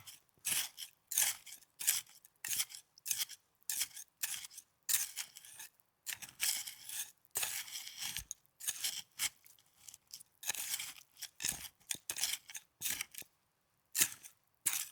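Snow crunching close to the microphone in a run of short crisp strokes, about two a second with brief pauses between them.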